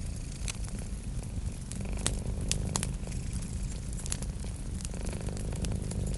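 Wood fire crackling, with sharp pops at irregular intervals, over a steady low cat purr.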